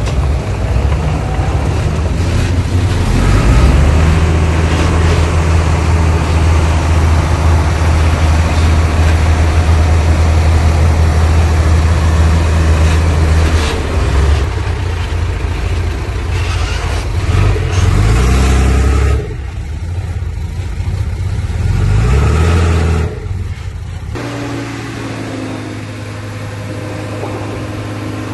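Heavy diesel engine of earthmoving machinery working under load with a steady deep drone. Its pitch shifts and rises around two-thirds of the way through, then falls away sharply twice and settles to a steady lower idle near the end.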